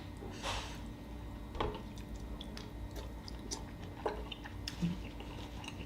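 Close-up chewing of spicy seafood, with small wet clicks and crackles at irregular moments over a faint steady hum.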